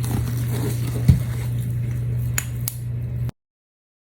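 Light clinks and a soft knock from small craft tools being handled on a work surface, over a steady low hum. The sound cuts out abruptly to dead silence a little after three seconds in.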